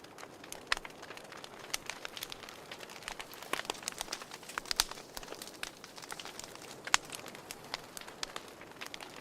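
Fireplace fire crackling: irregular pops and snaps over a soft hiss, with a couple of louder pops about five and seven seconds in.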